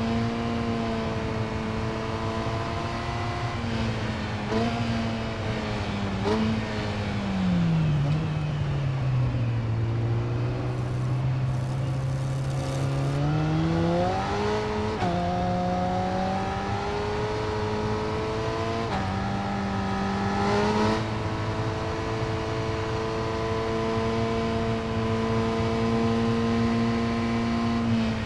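Yamaha R6's inline-four engine running through an Akrapovič exhaust. It holds steady revs, with short blips a few seconds in. It drops to lower revs about eight seconds in, climbs back up around fourteen seconds, blips again around twenty seconds, then settles to a steady pitch.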